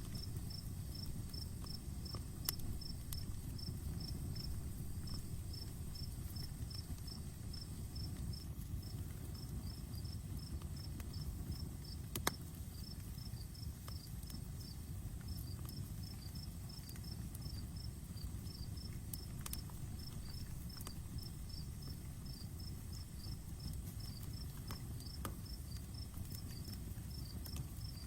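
Campfire burning with a low steady rush and a few sharp crackling pops, the loudest about midway. Over it a cricket chirps at an even pace of about three chirps a second, with a faint high steady insect buzz behind.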